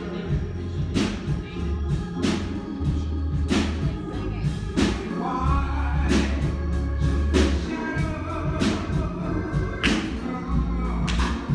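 Live gospel music: a congregation singing over a band with a steady bass line and a sharp beat struck about every second and a bit.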